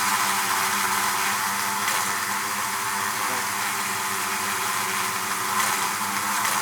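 Dense, steady buzzing of a honeybee hive, many bees humming at once.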